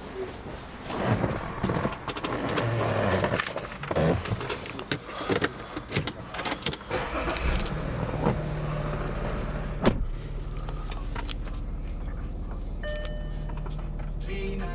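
Audi SQ5 in the first seconds: irregular handling and rustling noises, then its engine settles into a steady idle hum from about eight seconds in, with a single sharp knock just before ten seconds.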